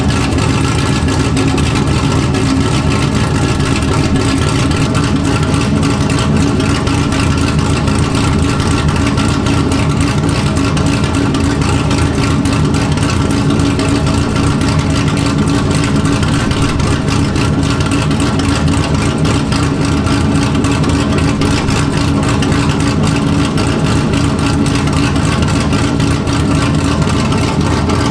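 C6 Corvette V8 with a BTR Stage 3 camshaft, exhausting through headers and an X-pipe with no mufflers, running loud at a steady, unchanging engine speed.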